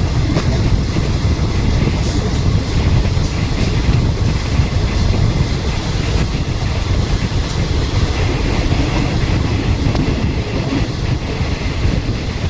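Passenger train running along the rails, heard from on board: a steady low rumble from the wheels and track, with occasional faint clicks.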